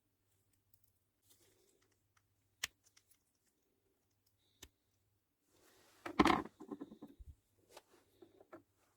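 Small parts and tools being handled during a bicycle shifter rebuild: scattered light clicks, one sharp click about two and a half seconds in, and a louder clatter about six seconds in, followed by a few smaller knocks.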